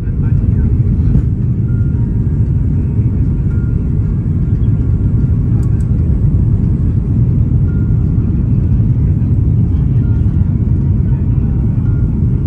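Steady low rumble of cabin noise inside an Airbus A330-300 airliner: engine and airflow noise heard from a passenger seat.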